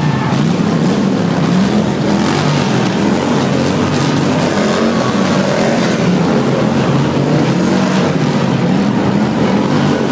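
Motorcycle engine running loudly and continuously, its pitch wavering up and down with the throttle.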